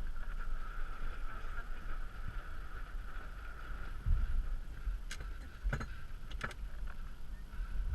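Wind and water noise of a small sailboat under way: a steady low rumble of wind on the microphone with a steady hiss, and three sharp clicks about five to six and a half seconds in.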